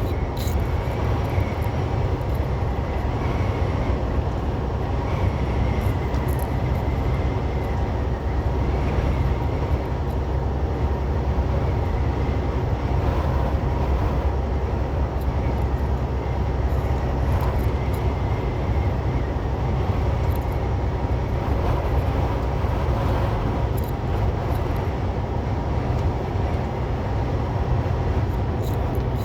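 Semi truck cab at highway speed: a steady low engine drone mixed with road and wind noise, unchanging throughout.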